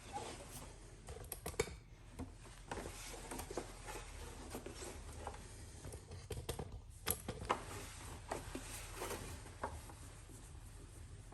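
Towel rubbing and scuffing over a washing machine's door glass and rubber door seal as it is wiped dry, with scattered light clicks and knocks.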